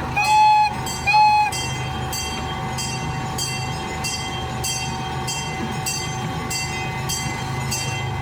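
Zoo train's horn giving two short toots. A bell then rings steadily about twice a second over the low rumble of the running train.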